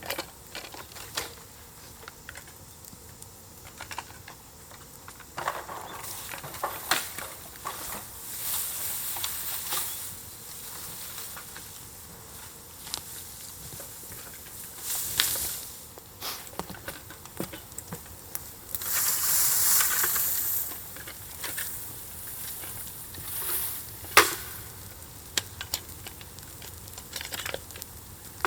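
Campfire burning over embers with fresh fuel on it: irregular crackling and sharp pops, with short spells of hissing, the longest about two-thirds of the way through, and one loud pop soon after.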